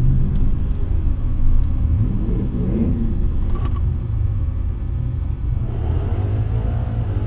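Vehicle engine rumbling steadily, with its pitch rising and falling as it revs a couple of times.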